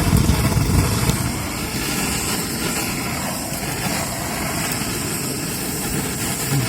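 Hagfish grilling directly over a wood fire: steady, dense sizzling and crackling, with a strong fire under the grill.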